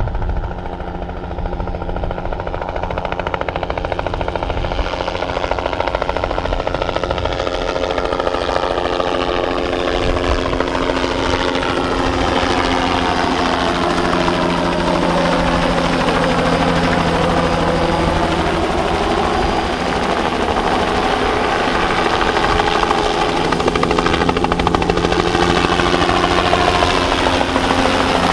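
Bell 206B-3 JetRanger III helicopter in flight on a crop-spraying run, its turbine and rotor sound growing gradually louder as it draws near. A slow phasing sweep falls and then rises through the sound as it moves past.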